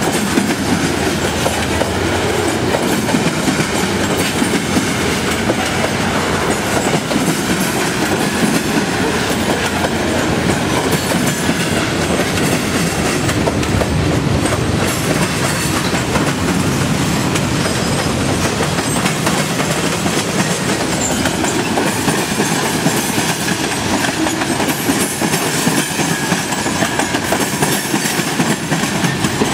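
Long freight train's cars rolling steadily past, steel wheels clacking over the rail joints with a continuous rumble.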